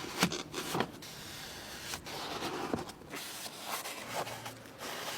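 A car being cleaned by hand: irregular scrubbing and rubbing with several short, sharp knocks.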